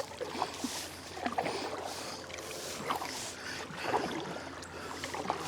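Kayak paddle strokes dipping and splashing in calm river water, with drips between strokes, a splash every second or so.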